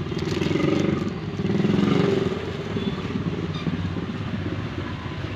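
A motor vehicle engine passes close by and swells twice in the first two seconds, over steady traffic noise.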